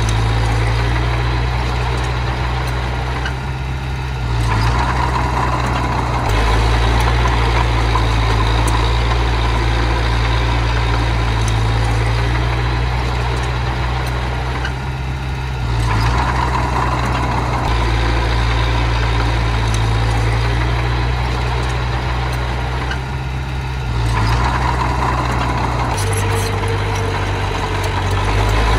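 Small bulldozer's diesel engine running steadily, its note swelling and easing a few times as the machine works.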